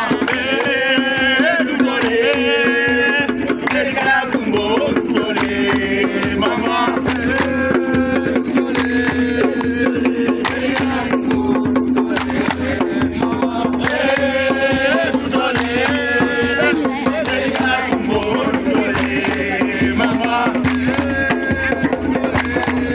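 Voices singing a song with drum and percussion accompaniment, keeping a steady beat.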